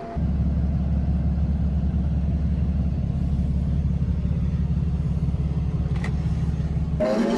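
TYM T574 compact tractor's diesel engine running steadily as a low, even drone, with a brief click about six seconds in.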